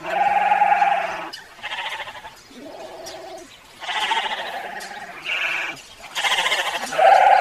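Sheep bleating repeatedly: about seven wavering calls at several pitches, some overlapping, the loudest at the start and near the end.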